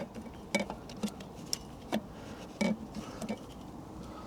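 Irregular light clicks and taps of small metal parts being handled, about six in four seconds, while a bolt and gasket are fitted at the catalytic converter joint.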